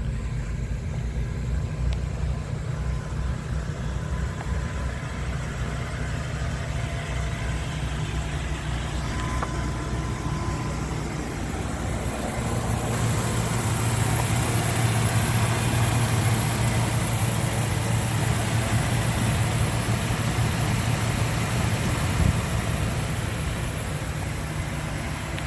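Ford E-450 box truck's engine idling steadily, getting louder about halfway through.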